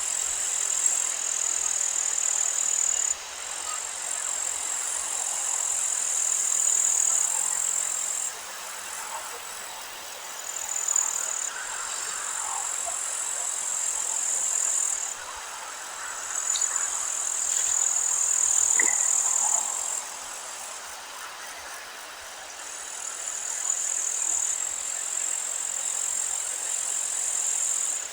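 Meadow ambience: wind noise with faint birdsong and a steady high-pitched hiss that cuts in and out every few seconds.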